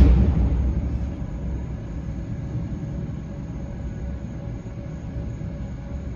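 A firework burst booming at the very start and rumbling away over about a second, then a steady low rumble.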